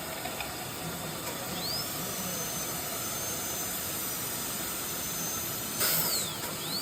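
High-speed dental air-turbine handpiece spinning up to a steady high whine about one and a half seconds in, running while cutting a tooth preparation, then winding down near the end and starting up again. A steady hiss of air runs underneath, with a short louder hiss just before the whine drops.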